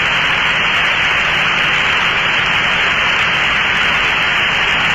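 Steady hiss of static on the cockpit radio and intercom audio between transmissions, even and unchanging, with a faint low hum beneath.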